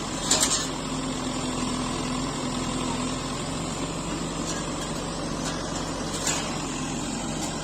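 Diesel engines of a backhoe loader and farm tractors running steadily, with a sharp clank about half a second in and another about six seconds in.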